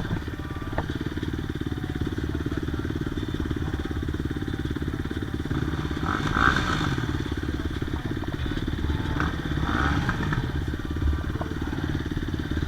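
Yamaha YZ250 single-cylinder two-stroke dirt bike engine idling with a rapid, steady pulse, with brief rises and falls in pitch about six and nine seconds in.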